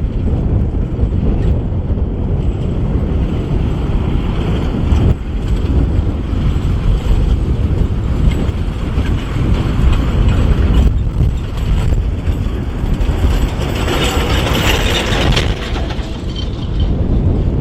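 Kubota M6040SU tractor's diesel engine running steadily while plowing mud, a dense low rumble throughout. A brighter hiss swells in about fourteen seconds in and fades a second or so later.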